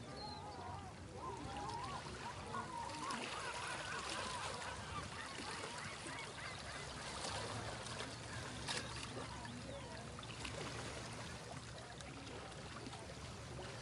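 Outdoor city-waterside ambience: birds calling with honking, wavering cries, thickest in the first few seconds, over a steady background murmur.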